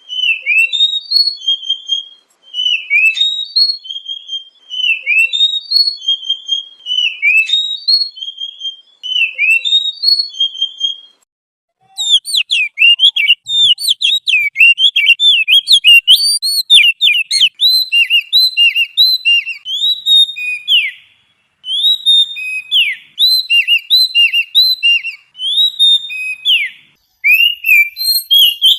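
Songbird song of clear whistled notes. For the first half, short phrases repeat with pauses of about a second between them. About halfway in, a faster, denser song of many varied notes takes over and runs almost without a break.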